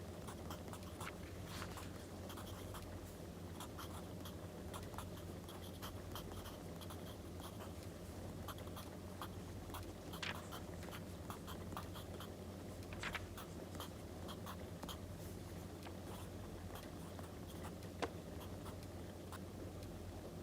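Pen or pencil scratching on paper in short strokes, over a steady background of a crackling wood fire, with a few sharper pops standing out about 10, 13 and 18 seconds in.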